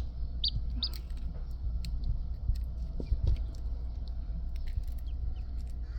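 Newly hatched chicks peeping: two short high peeps about half a second and a second in, and a couple of fainter ones near the end. Scattered light clicks and a steady low rumble run underneath.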